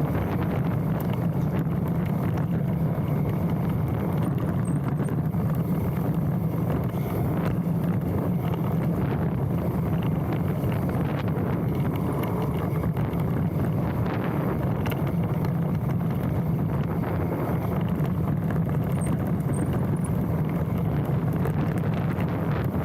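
Wind rushing over a handlebar-mounted camera's microphone together with the tyre roar and frame and drivetrain rattle of a Specialized Stumpjumper mountain bike riding down a dirt trail. A couple of brief faint high squeaks, about five seconds in and again later on, are the disc brakes squealing as they are applied.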